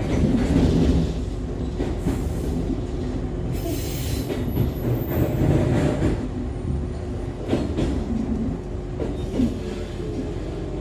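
Echizen Railway MC6101-series car (MC6106) running between stations, heard from inside: a steady rumble of wheels and running gear with a steady hum, a brief high wheel squeal about four seconds in, and a couple of sharp rail clicks.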